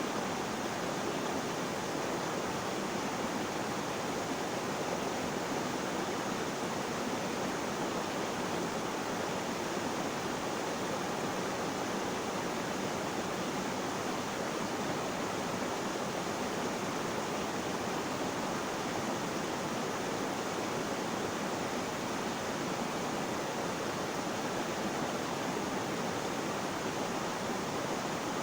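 Flowing water: a steady, even rush without distinct splashes or drips.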